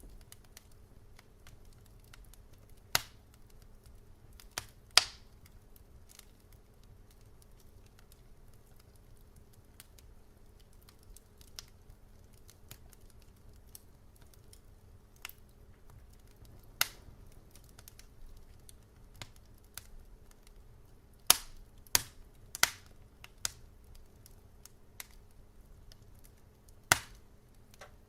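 Wood fire crackling: scattered sharp pops and snaps at irregular intervals, with a quick cluster a little past two-thirds of the way through, over a faint steady low hum.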